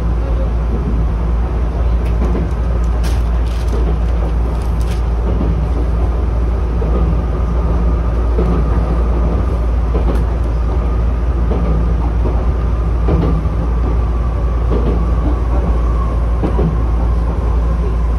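Chichibu Railway 7500-series electric train running on welded long rail, heard from inside: a steady heavy rumble with a faint knock about every one and a half seconds and a faint whine coming in about halfway through.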